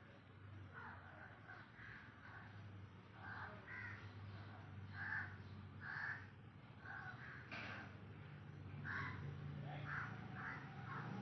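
Birds calling over and over in short calls, one or two a second, over a low steady hum.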